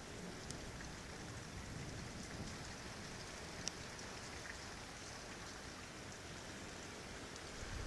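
Steady rain falling during a thunderstorm, with now and then a single drop ticking sharply.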